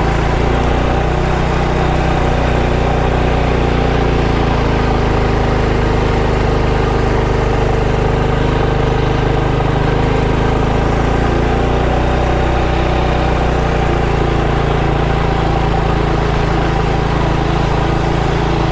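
Motorcycle engine running steadily while riding, its pitch holding nearly even with no revving or gear changes.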